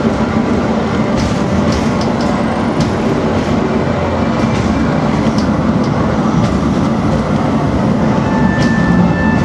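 A regional diesel train running, heard from inside the passenger car: a steady rumble of engine and wheels on the track, with scattered clicks and rattles from the rails. A faint thin squeal comes in near the end.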